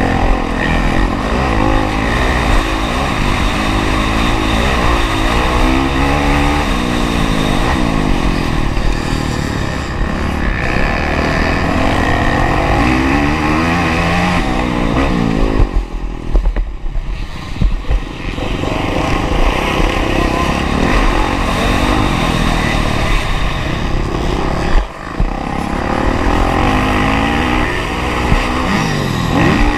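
Honda CRF450R's single-cylinder four-stroke engine revving hard up and down as the rider works the throttle and gears. The engine note falls away for a couple of seconds about halfway through, and dips sharply for a moment about five seconds from the end.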